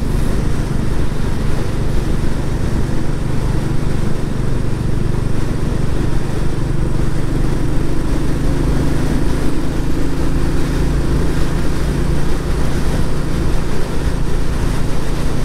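Royal Enfield Classic 350's single-cylinder engine through its stock exhaust, running steadily at a constant cruise, with wind and road noise.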